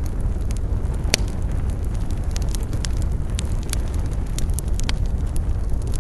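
Wood campfire burning: a steady low rumble of flames with frequent sharp crackles and pops, one louder pop about a second in.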